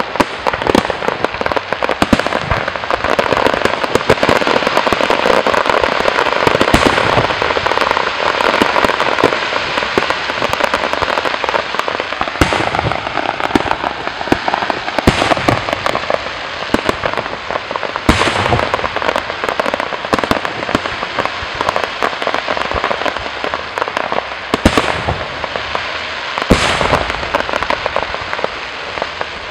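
Fireworks display: dense, continuous crackling and popping, with about five louder bangs in the second half.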